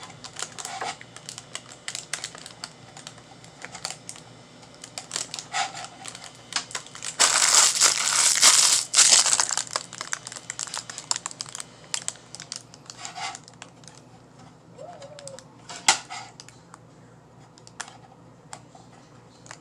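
Hands handling 3D printer parts: scattered light clicks and knocks of plastic and metal, with one loud rustling scrape lasting about two and a half seconds starting about seven seconds in.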